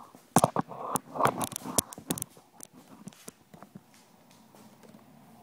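A quick run of clattering knocks and scrapes lasting about two seconds, then a few scattered clicks.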